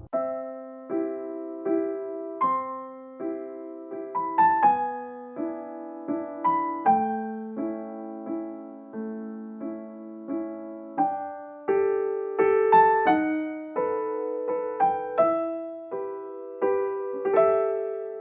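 Background piano music: a slow, gentle melody of single notes and chords, each struck and fading away.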